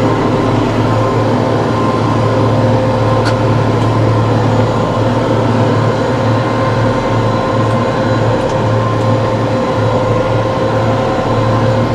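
TYM T654 tractor running steadily, a constant mechanical drone with a steady hum that does not rise or fall.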